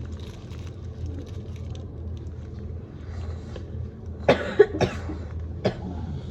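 A person coughing, a quick run of three coughs about four seconds in and one more a second later, over a steady low hum.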